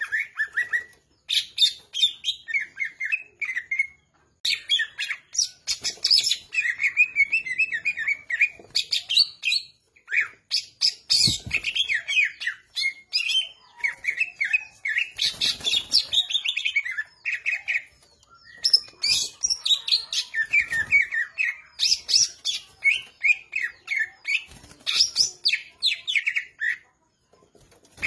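Green leafbird (cucak ijo) singing in full, continuous song: rapid chattering phrases mixed with harsh notes, with short pauses between phrases every few seconds.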